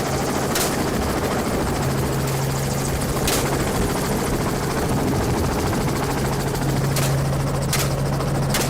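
Helicopter running steadily with a constant low hum, with about five short sharp cracks scattered through it.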